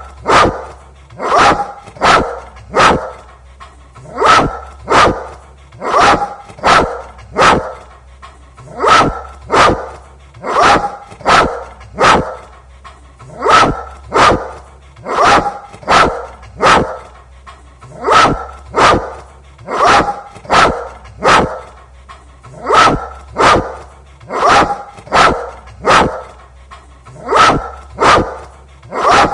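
A dog barking over and over in an even rhythm, roughly one to two barks a second, with a faint steady low hum underneath.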